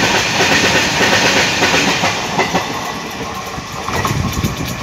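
Freight wagons rolling past close by, their steel wheels clattering over the rail joints amid a dense rumbling hiss. The noise eases off in the second half as the last wagons pass.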